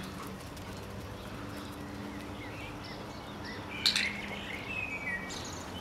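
Small garden birds chirping and calling, the loudest a sharp call about four seconds in, followed by a few short gliding whistles. A faint steady low hum runs underneath.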